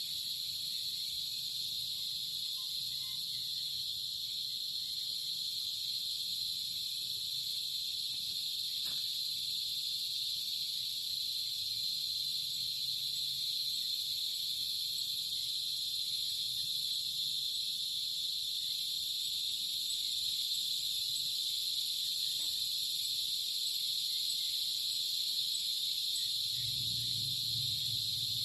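Dense chorus of night insects such as crickets: a steady, unbroken high-pitched shrilling layered in several pitches. A faint low hum comes in near the end.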